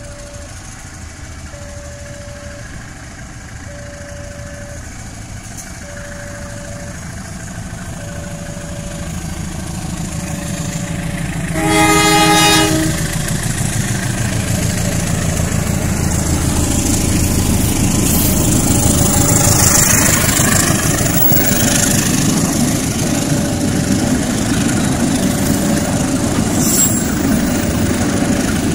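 A repeating electronic warning tone, in short beeps every second or two, from a level-crossing alarm. About twelve seconds in, a CC201 (GE U18C) diesel-electric locomotive sounds its horn in one blast of about a second. Then its engine and the ballast wagons rolling over the rails grow loud as the train passes.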